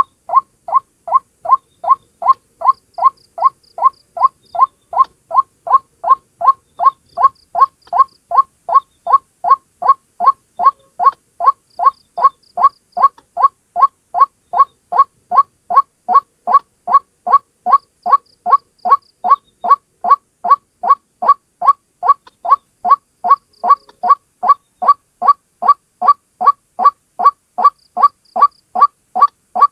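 White-breasted waterhen (ruak-ruak) calling: one bird's short note repeated about twice a second in a steady, even rhythm. This is the call used as a lure to draw the bird in for trapping.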